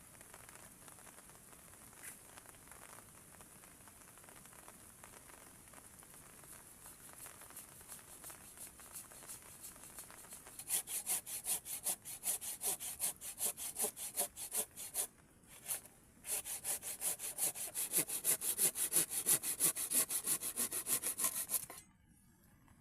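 An insect calling in fast rasping pulses, about five a second, that swell in from about six seconds in, break off briefly in the middle and stop abruptly near the end, over a steady hiss of rain.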